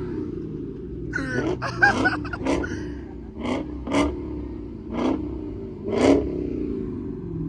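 Car engines revved in short, sharp throttle blips, about six in a few seconds, over a steady low idle: a rev battle between muscle cars.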